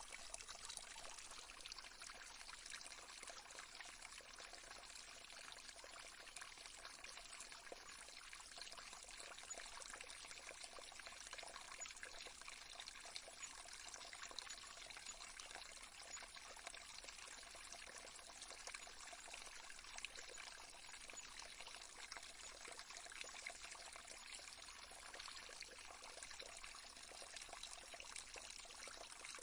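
Faint, steady trickling of running water, like a small stream.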